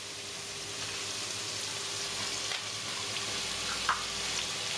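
Carrots, meatballs and chilies sizzling steadily in hot oil and spice paste in a nonstick wok.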